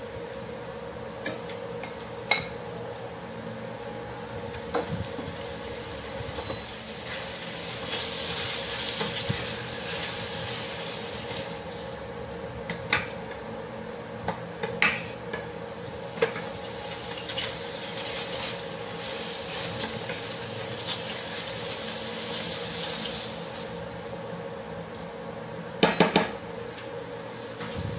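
Chicken pieces sizzling in oil in a stainless steel pot while a wooden spatula stirs them, knocking and scraping against the pot, with a quick run of three or four loud clanks near the end. A steady low hum runs underneath.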